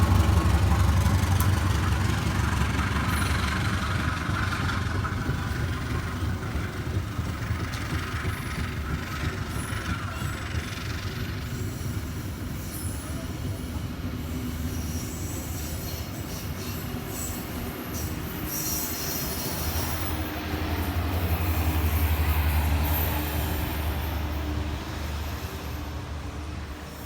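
A train running past on the rails with a heavy low rumble, loudest at first, easing off, then swelling again about twenty seconds in before fading, with faint high wheel squeal along the way.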